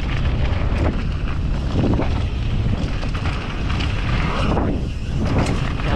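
Steady wind noise buffeting the microphone while a mountain bike rolls down a trail, with a few short knocks from bumps along the way.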